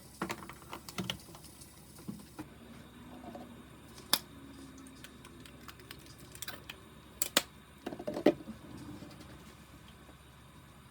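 Scattered light clicks and knocks of kitchen utensils and dishes being handled, loudest about four seconds in and in a cluster near the end.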